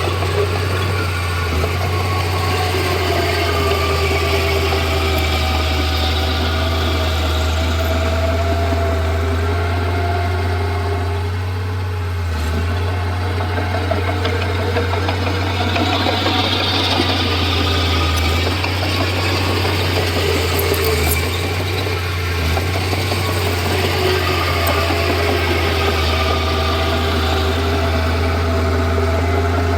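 Komatsu D31P bulldozer's diesel engine running steadily, with a constant low hum and higher tones that waver and shift as it works.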